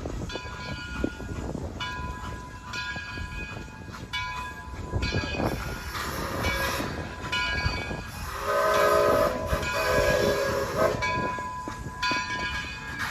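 Steam train running past, with high steady squealing tones that come and go. About eight seconds in, the locomotive blows a single whistle blast of several notes that lasts about two and a half seconds.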